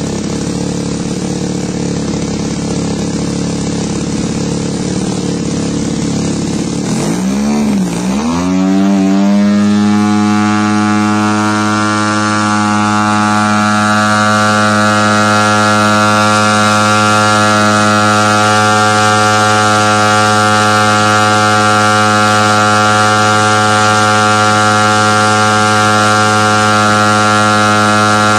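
RC airplane engine running at high throttle during carburettor tuning, its high-speed needle being leaned. The pitch sags and swings back up about seven to eight seconds in, then the engine holds a steady, slightly louder note.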